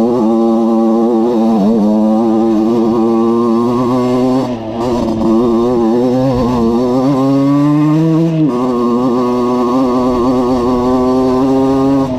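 Valenti RME 50cc two-stroke enduro bike engine running under load, its note wavering with the throttle. Past the middle the pitch rises steadily for about two seconds, then drops suddenly.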